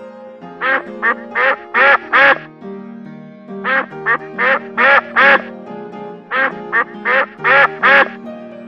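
A duck quacking in three bursts of about five quacks each, over soft background music of held keyboard tones.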